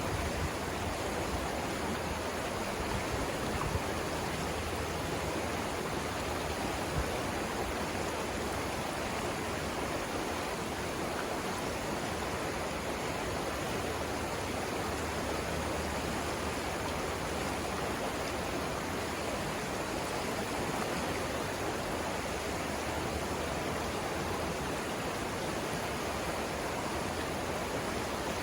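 Savannah River rushing over rapids: a steady, unbroken wash of flowing water.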